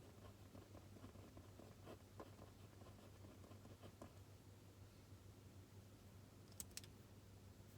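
Pen writing on paper, faint scratchy strokes for the first few seconds, then two small sharp clicks near the end, over a low steady hum.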